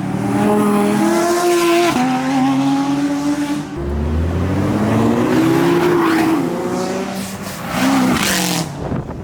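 Performance car engines accelerating hard past one after another. The pitch climbs, drops at a gear change about two seconds in, then climbs and falls again as a second car pulls through and away.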